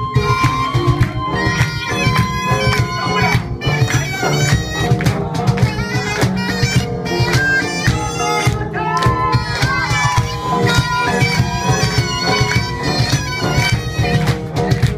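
Live Korean traditional ensemble music: a loud wind-instrument melody with long held high notes over a fast, steady drum beat.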